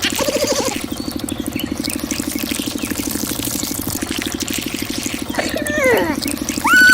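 Small engine sound from a miniature model truck, running steadily with a fast, even pulse like idling. A few short sliding tones falling in pitch come near the end.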